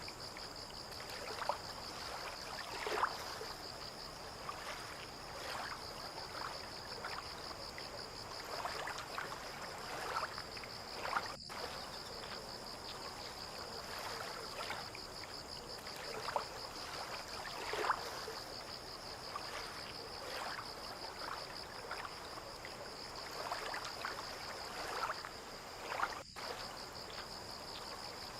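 Water lapping and splashing irregularly against moored boats and the harbour edge, over a steady, fast-fluttering high-pitched trill. The sound cuts out for an instant twice.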